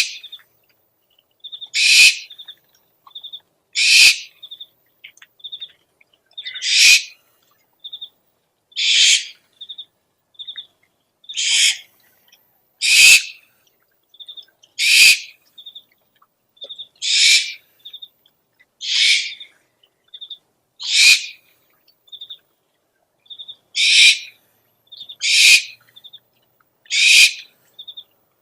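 Owl lure recording: harsh, hissing screech calls repeated about every two seconds, with short high pips in between.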